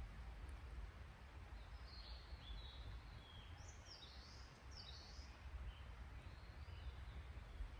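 Faint bird calls: a short run of high chirps about halfway through, over a steady low rumble.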